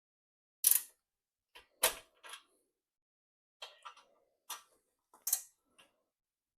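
Hand tools clicking and knocking against the motorcycle's metal exhaust parts as they are worked loose. There are about ten irregular clicks, the loudest a little under a second in, around two seconds in and just past five seconds.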